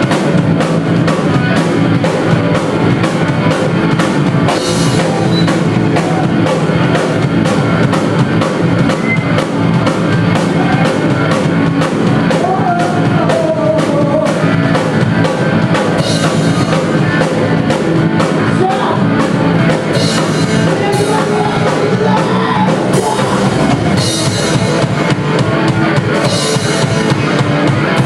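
Rock band playing live: a drum kit keeps a steady beat under a dense band sound, with a pitched melody line sliding up and down about halfway through.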